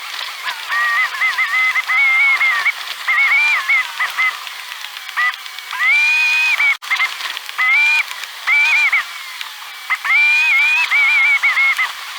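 Tires spinning on packed snow, a loud wavering squeal in repeated stretches as the wheels slip and catch.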